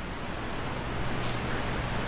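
Steady rushing background noise with a low hum underneath, no distinct events.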